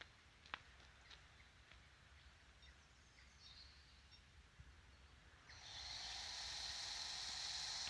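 Near silence with a few faint clicks, then about two-thirds of the way through the Syma X8HG quadcopter's motors start up and run with a steady high whir.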